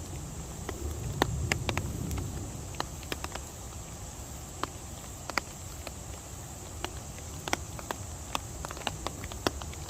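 Rain falling in a mountain stream valley: a steady hiss with irregular sharp ticks of drops landing close by, and a low rumble that swells briefly about a second in.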